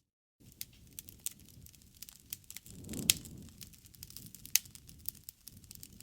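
Wood campfire crackling, with irregular sharp pops over a low, soft rush of flame that swells around three seconds in. The sound drops out completely for a moment at the very start.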